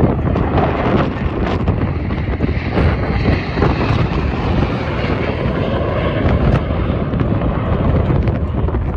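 Aircraft engine noise from a plane flying over, mixed with heavy wind buffeting the microphone.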